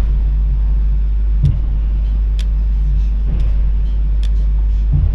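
Talgo sleeper carriage running along the track, heard from inside the cabin: a steady low rumble with occasional sharp clicks and knocks.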